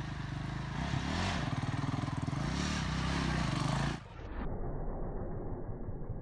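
Dirt bike engine running and revving, its pitch rising and falling twice. About four seconds in, the sound cuts off abruptly to a muffled, duller engine rumble.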